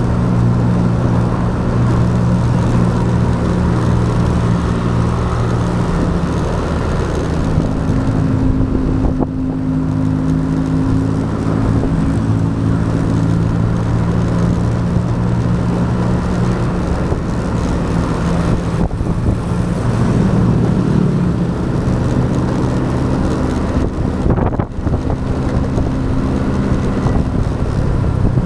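Motorcycle engine running under way, with a steady hum and a noisy rush over it; the engine pitch shifts a few times as the speed changes.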